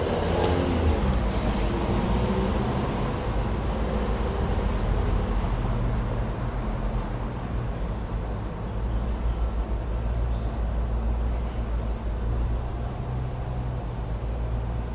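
Street traffic: a steady low rumble of road vehicles going by.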